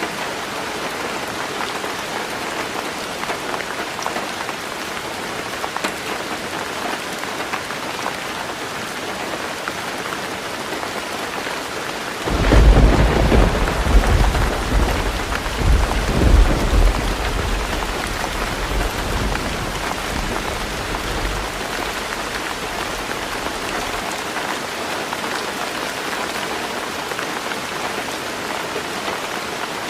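Heavy rain falling steadily on a tin roof. About twelve seconds in, a thunderclap breaks in and rolls in several surges for about five seconds, then fades to a low rumble.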